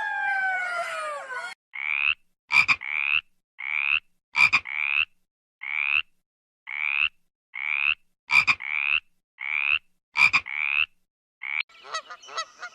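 A frog calling: a steady series of short, rising croaks, about three every two seconds, with a few sharp clicks among them. It opens on the tail of a long falling call from another animal that stops about a second and a half in.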